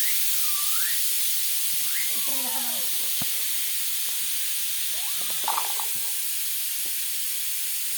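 Steady high hiss throughout, with a short swooping whistle right at the start and a few brief chirping calls, one cluster about two seconds in and another about five seconds in.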